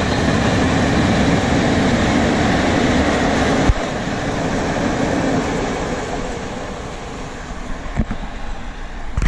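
Freight train of PKP Cargo Eas open box wagons rolling past at close range, the wheels rumbling on the rails, with a single sharp knock about four seconds in. The noise then fades as the last wagons pass and the train draws away, with a few low thumps near the end.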